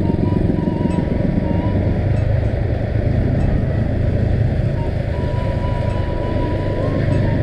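Motor vehicle running steadily on the move, with a continuous low rumble of engine, road and wind noise.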